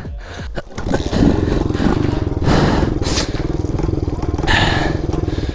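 Small single-cylinder four-stroke pit bike engine catching after being kick-started and running unevenly, its loudness jumping up about a second in.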